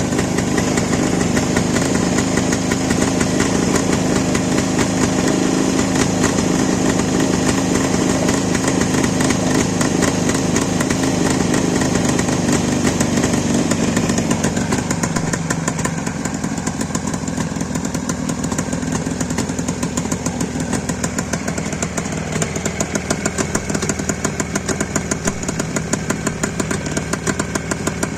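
Rebuilt motorcycle engine running steadily, then dropping off about halfway through and running weaker, with more distinct, uneven firing pulses near the end: it is starving as its petrol runs out.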